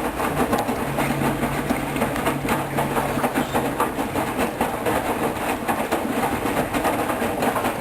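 Hoover Dyn 10124 DP front-loading washing machine running in its rinse stage: a steady mechanical rumble with many small knocks, and a low motor hum that comes and goes.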